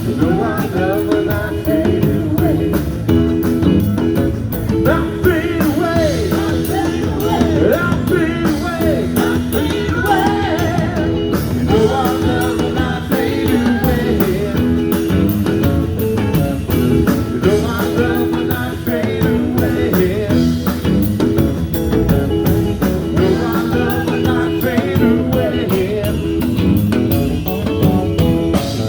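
Live band playing blues-rock, with electric guitar and drums.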